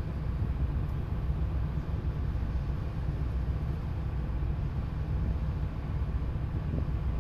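Tugboat engine running, a steady low rumble with no change in speed.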